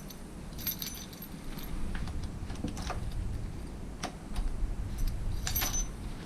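Keys jangling and clicking in short jingles, about a second in and again near the end, over a low handling rumble.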